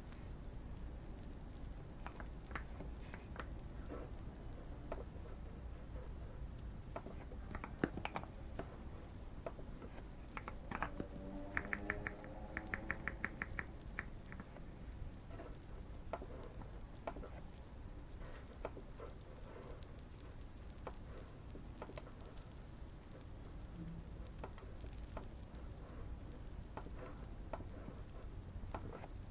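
Typing on a modded Keychron Q1 mechanical keyboard with Fierce Girl switches: scattered muted keystrokes, with a quick even run of key presses about halfway through. A light fireplace crackle sits underneath.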